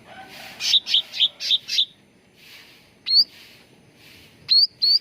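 Cucak ranting calling: a quick run of five harsh chattering notes about half a second in, then short, sharply rising whistled notes, once about three seconds in and twice near the end.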